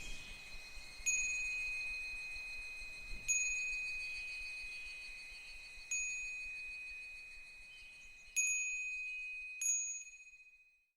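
Japanese fūrin wind chime struck by its clapper five times, each strike leaving a long, clear, high ringing tone that slowly decays. The sound fades away completely near the end.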